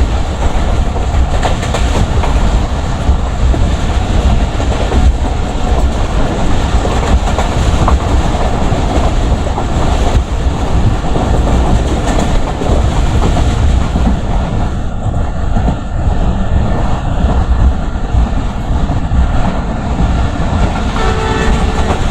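Express passenger train passing at speed: a loud, steady rumble with the wheels clattering over the rail joints as the coaches rush by.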